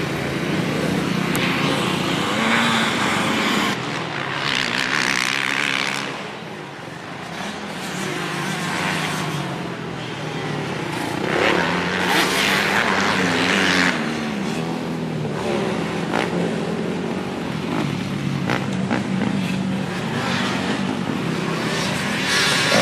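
Dirt bike engine running, its pitch rising and falling as the throttle opens and closes, with a few bursts of rushing noise.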